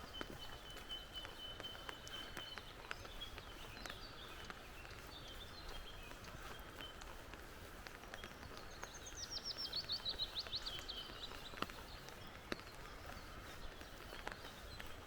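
Forest birds singing: a held high whistled note for the first couple of seconds, scattered short calls, and a quick run of high descending notes a little past the middle. Scattered faint ticks sound now and then.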